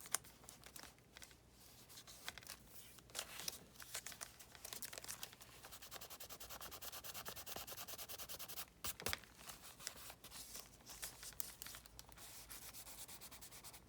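Faint scratchy rubbing of paper, hands pressing and smoothing a glued paper piece flat onto a journal page, with rapid even strokes in the middle and a single sharp click about nine seconds in.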